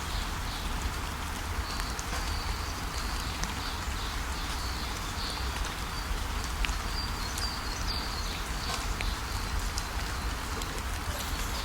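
Outdoor ambience: a steady hiss with low wind rumble on the microphone and faint, short high chirps scattered through it.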